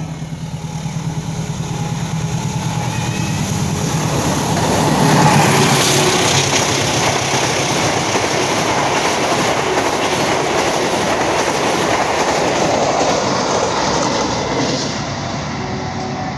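Diesel-hauled passenger train passing at speed close by. The locomotive's engine drone builds to its loudest about five seconds in, then the coaches rush past in a steady din of wheels on rail, easing off near the end.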